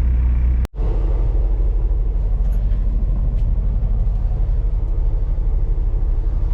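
Semi truck's diesel engine idling, a steady low rumble. It cuts out for a split second less than a second in, then carries on unchanged.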